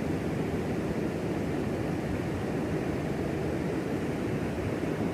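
Steady rush of flowing creek water, an even low roar with no breaks.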